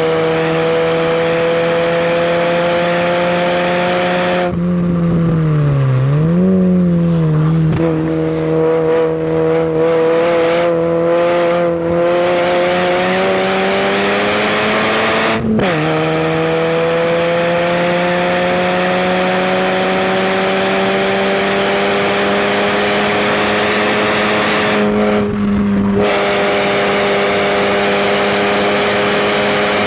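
Fiat barchetta's 1.8-litre four-cylinder engine, heard from inside the car while driven hard on track, its note climbing steadily under acceleration. About four seconds in the note falls off and dips and rises again briefly. About halfway through it drops sharply, as at a gear change, then climbs again.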